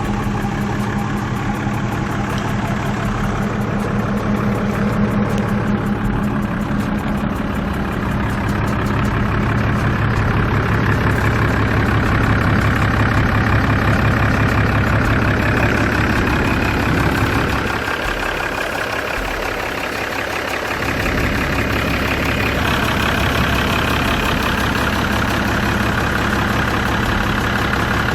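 Hyundai 5-ton frame truck's diesel engine idling steadily, heard close up. Its low hum fades for a few seconds past the middle, then returns.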